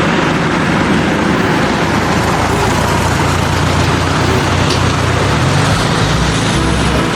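A motor vehicle's engine running steadily amid road and traffic noise.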